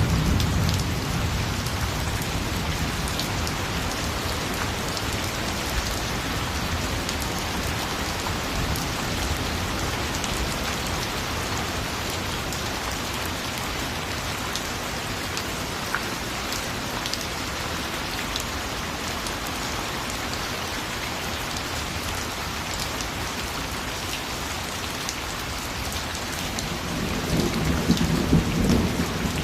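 Steady rain falling, with a low rumble of thunder dying away at the start and another rolling in near the end.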